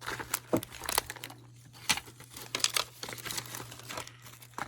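Crinkling and rustling of craft packets and embellishments being rummaged through by hand, in quick irregular crackles.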